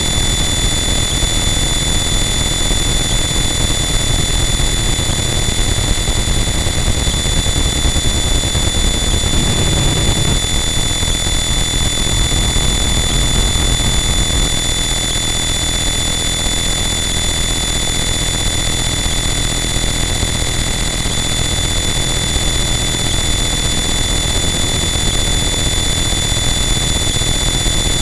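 Harsh noise wall: a loud, unchanging wall of dense distorted static with steady high-pitched whines running through it over a heavy low rumble.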